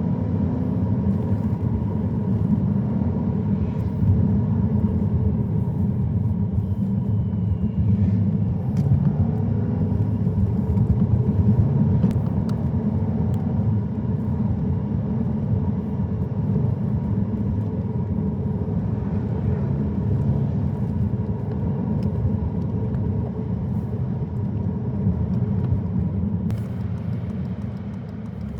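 Car driving along a road: a steady low rumble of engine and tyres, with a few faint scattered ticks.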